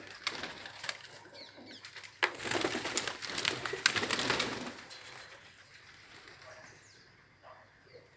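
Feeding birds flapping their wings, with a louder flurry of wingbeats and a few sharp clicks from about two to five seconds in, then quieter bird sounds.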